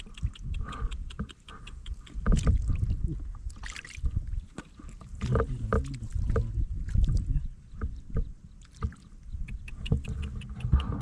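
Water splashing and sloshing in irregular surges, with many short knocks and clicks mixed in.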